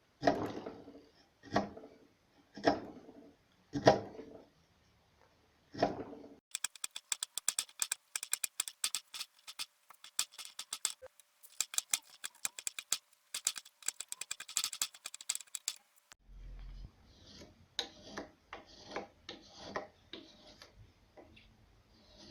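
Hand woodworking tools on wood: about five sharp knocks roughly a second apart, then from about six seconds a fast run of dry clicks lasting about ten seconds, then irregular lighter knocks over a low hum.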